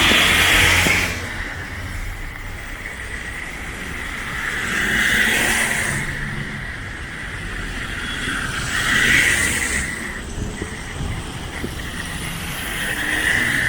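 Road traffic: vehicles passing one after another, each swelling up and fading away, about four seconds apart, over a steady low rumble.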